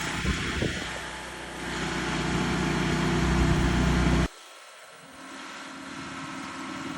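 An engine running steadily, cut off abruptly about four seconds in; a quieter steady hum follows.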